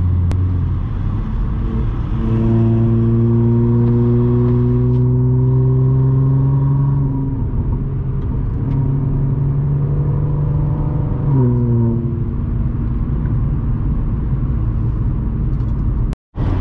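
Audi S4's supercharged V6, with aftermarket exhaust and test pipes, heard from inside the cabin. It cruises steadily, then about two seconds in it pulls with a gently rising pitch for several seconds and holds. A little after ten seconds the pitch drops back and it settles into a steady cruise. The sound cuts out for a moment near the end.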